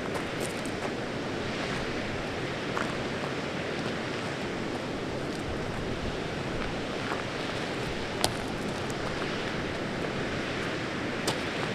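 Steady rushing of water from a stream running through a rock tunnel, with a few faint clicks.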